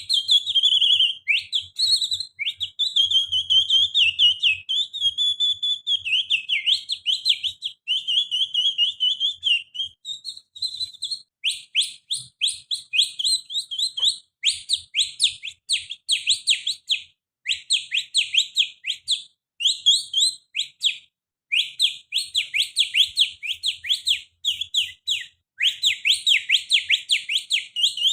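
Finger whistling that imitates a canary's song: a warbling, then phrases of fast, repeated falling trills with short breaks between them.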